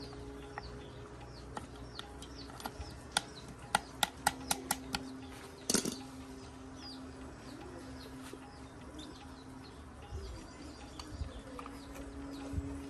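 Small birds chirping over and over, with a steady low hum beneath. A quick run of sharp taps comes a few seconds in, and a louder knock follows shortly after.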